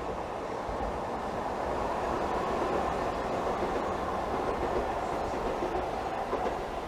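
Class 375 Electrostar electric multiple unit running past empty, a steady rolling noise of wheels on rail that eases off slightly near the end.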